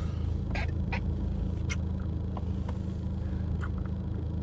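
Steady low hum of a car's running engine, heard from inside the cabin, with a few faint short clicks in the first few seconds.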